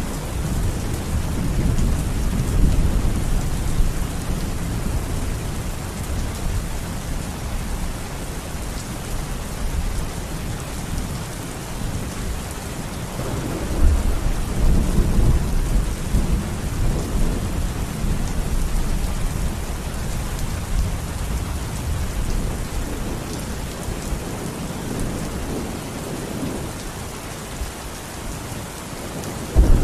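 Steady rain falling with deep rolling thunder rumbling underneath, swelling about halfway through.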